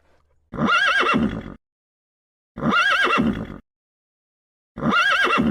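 An animal's whinny-like call, about a second long with a wavering, quavering pitch, heard three times in identical copies about two seconds apart.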